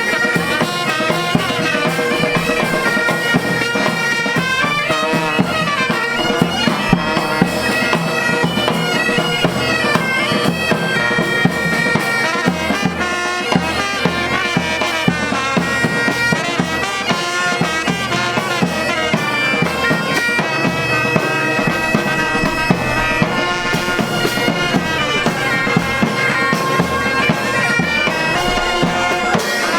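Pipe band playing: bagpipes carry a melody over a steady drone, with drumbeats throughout.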